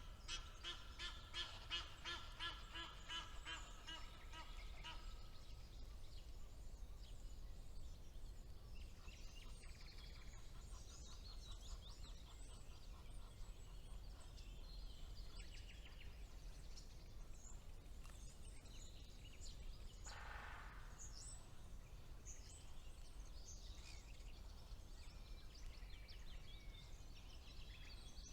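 Woodland birdsong: a common nightingale sings a loud, fast run of repeated notes for about five seconds. Quieter scattered chirps and short phrases from other songbirds follow over a low background rumble.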